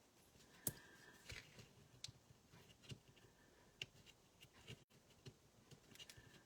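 Near silence with faint scattered ticks and light rustles from paper and adhesive foam strips being handled.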